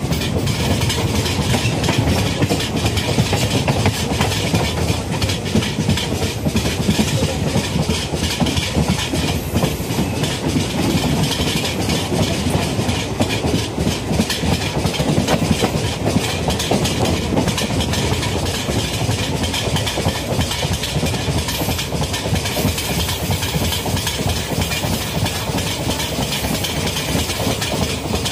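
Malwa Express passenger coach running along the track: a steady low rumble with a continuous clatter of wheels on the rails.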